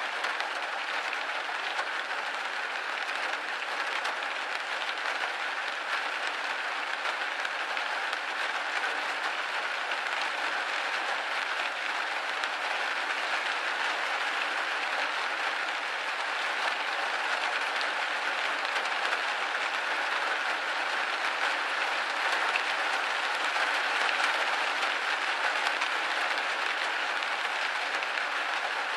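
Rain hitting a window pane steadily, a dense, even hiss with almost no low rumble.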